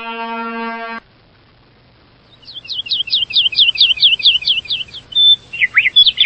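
A held horn-like tone with many overtones cuts off sharply about a second in. After a short pause over a low hum, a bird twitters in a fast run of falling chirps, about five a second, then gives a few varied chirps and whistles.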